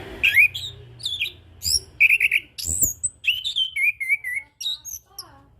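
Chestnut-capped thrush (anis kembang) singing one long, rapid, varied phrase of whistles, slurred notes, quick repeated chips and short trills, lasting about five seconds.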